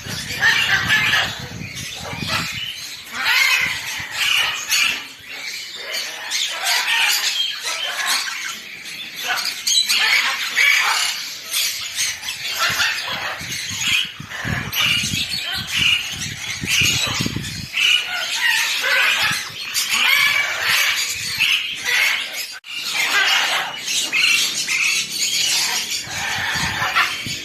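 Many birds calling at once, a dense chatter of short overlapping squawks and chirps, with a stretch of lower rustling about halfway through.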